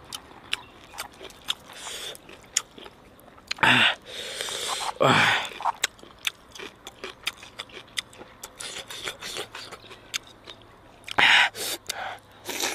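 Close-miked eating of crispy fried chicken dipped in chili sauce: crunching and clicking chewing throughout. A few loud, noisy breaths come about four, five and eleven seconds in.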